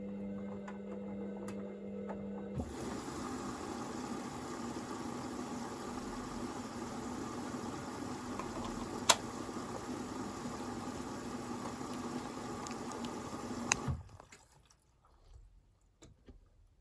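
Hoover VisionDynamic washing machine: a steady hum gives way about two and a half seconds in to a rush of water inside the machine. The water noise runs steadily for about eleven seconds and cuts off suddenly with a click, leaving only faint ticks.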